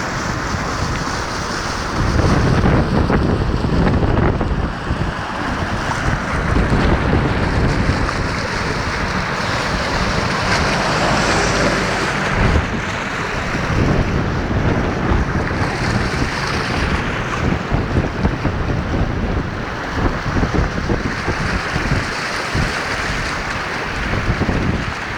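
Floodwater rushing steadily, with wind buffeting the microphone in uneven gusts.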